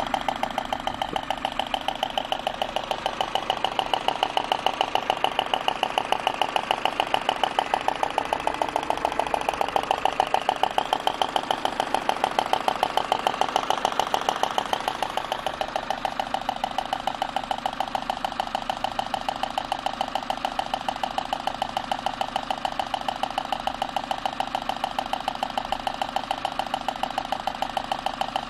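Citroën C4 petrol engine running with a steady, even knocking beat, a little quieter in the second half. The knock is a misfire caused by a defective spark plug.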